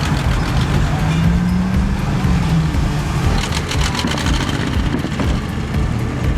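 Car engines and traffic noise as cars cruise past. About a second in, one engine's pitch rises and holds for a couple of seconds.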